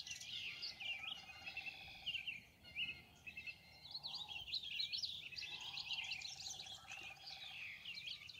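Birds singing, a dense chorus of quick high chirps and trills overlapping one another.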